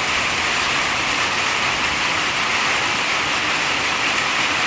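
Heavy rain pouring down in a sudden downpour: a loud, steady hiss of rain.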